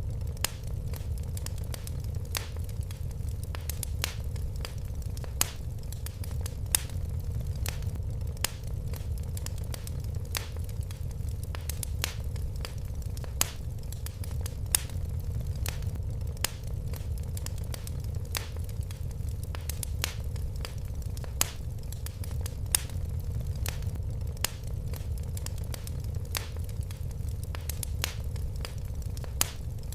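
Wood fire crackling in a fireplace: a steady low rumble of flames under frequent sharp, irregular pops, a few of them louder than the rest.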